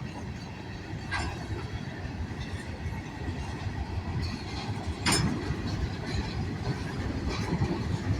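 Freight train rolling past with a steady low rumble, broken by sharp clanks about a second in and, loudest, about five seconds in.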